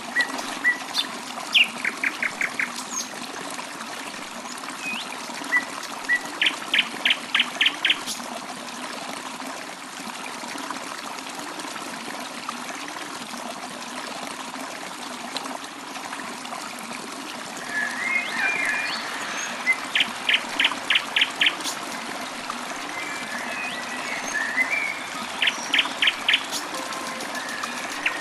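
Steady trickling of running water, with birds chirping over it. Several times a bird gives a quick burst of five or six evenly spaced notes, and there is a short scratchy chatter about two-thirds of the way through.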